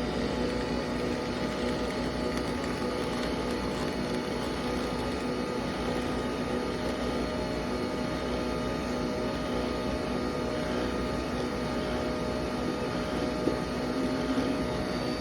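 Steady motor-and-pump hum of a Nespresso coffee appliance running, with a constant low tone, and a single click near the end.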